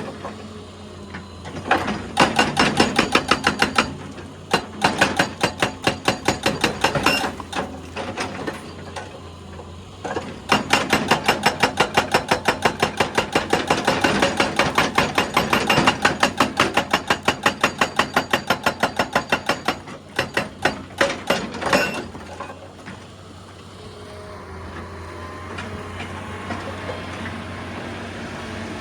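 Excavator's hydraulic breaker hammering rock in several bursts of rapid blows, about ten a second, with short pauses between them. About three quarters of the way through the hammering stops and only the excavator's engine runs on steadily.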